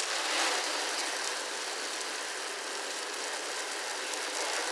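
Pressure washer spraying water onto a car panel, a steady hiss that starts suddenly.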